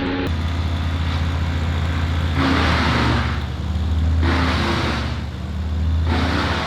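A large engine running steadily at a low pitch, with loud rushing bursts over it, three times: a long one a little past midway through the first half, a short one soon after, and another near the end.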